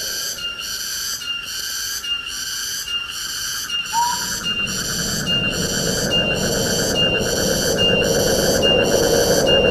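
Forest ambience: a high insect chorus pulsing steadily about twice a second, with a single short rising whistled bird note about four seconds in. A rush of wind through the trees grows louder from about halfway.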